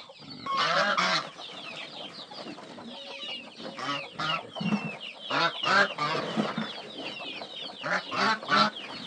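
Chickens clucking, many short calls overlapping, with louder bursts about half a second in and again near the middle and near the end.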